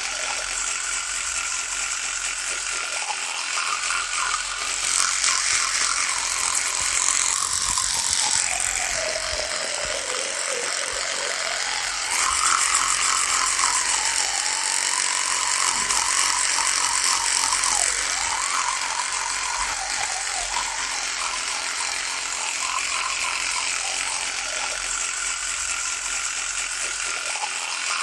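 Electric toothbrush buzzing steadily; its pitch sags lower partway through, then comes back up and wavers.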